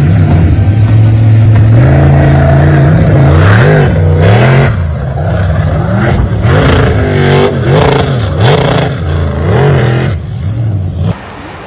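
An engine running loud and revving up and down over and over, its pitch rising and falling repeatedly, then cutting off suddenly near the end.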